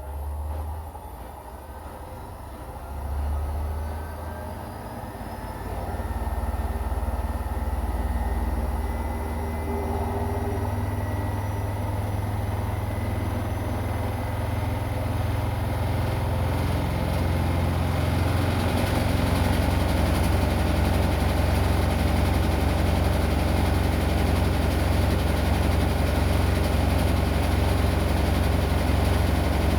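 Washing machine drum speeding up into a spin: a faint motor whine rises in pitch as the low hum grows louder, then settles into a steady, loud low drone past the halfway point.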